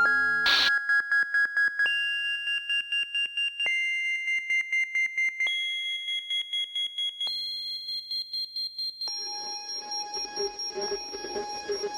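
Electronic beeping tone pulsing about four or five times a second, stepping up in pitch every couple of seconds. A short burst of noise sounds about half a second in, and a hiss joins beneath the beeps near the end.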